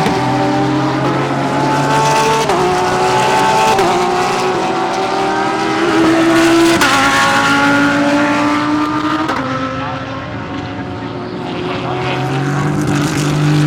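GT3 race car engines at full throttle, rising in pitch and dropping sharply at upshifts a few times. They fade somewhat about ten seconds in, then grow louder again near the end.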